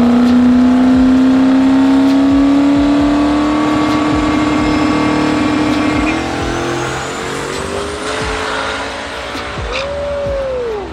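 Drag-racing engine launching and running down the strip at full throttle, its note climbing steadily for about six seconds, then dropping and fading as the car pulls away.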